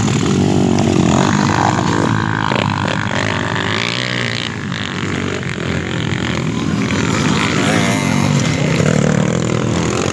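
Off-road motorcycle engines running and revving, their pitch rising and falling.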